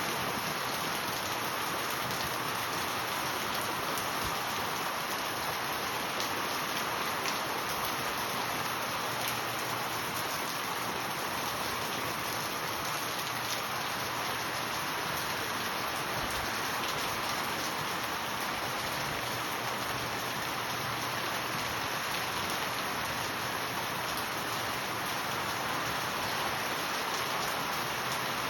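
Steady rain falling, a continuous even hiss of rain with faint scattered drop ticks.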